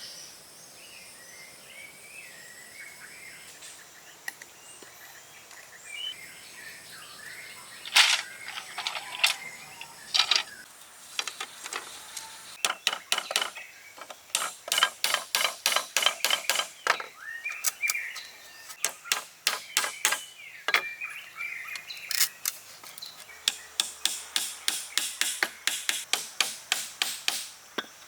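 Birds chirping, then runs of sharp clicks or taps, about three to four a second, that stop and start several times.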